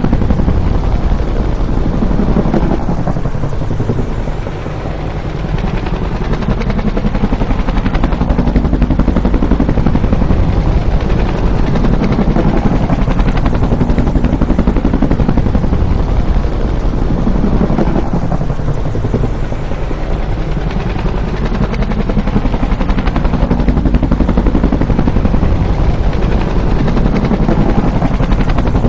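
Bell UH-1 'Huey' helicopter flying by, loud and continuous. Twice, about 14 seconds apart, the sound dips and its pitch slides as one pass gives way to the next.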